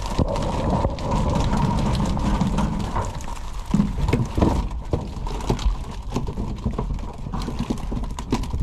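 Irregular knocking and clattering, many sharp knocks at uneven intervals over a steady low rumble.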